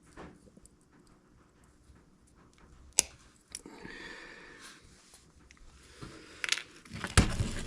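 Small tools and eyeglass parts being handled at a workbench. There is a sharp click about three seconds in and a brief scraping rustle, then a burst of louder knocks and clatter near the end.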